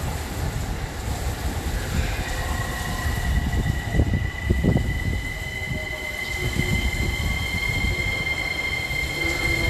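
Train running along the rails through a station, its cars rumbling, with a steady high wheel squeal that sets in about two seconds in and holds.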